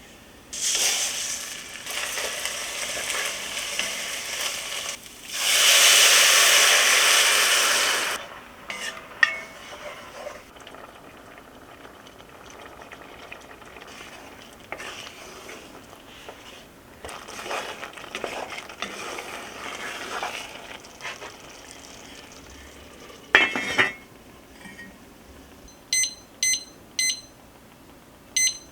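Kitchen cooking sounds: food sizzling as it is stirred in a pot, with a louder rush of sizzle for about three seconds, utensils clinking against cookware, and a sharp knock on a pot. Near the end come four short electronic beeps from a kitchen appliance.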